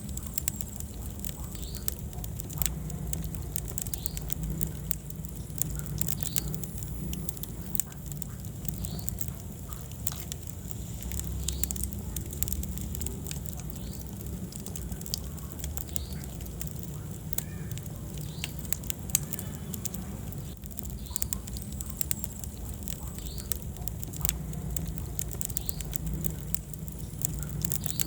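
Wood fire burning in a fireplace: irregular crackles and sharp pops over a low, steady rumble of the flames.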